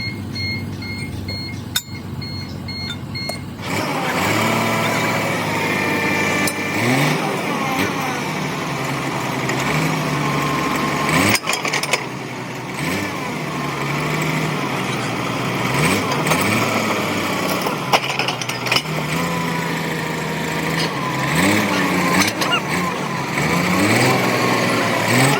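A heavy diesel engine on earth-moving machinery running under load, its revs climbing several times. It is preceded for the first few seconds by a steady repeated electronic beep, about two beeps a second.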